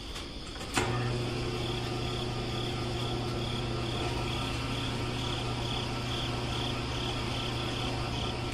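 A small motor running steadily with a low hum, starting about a second in, with a faint high chirp pulsing about twice a second over it.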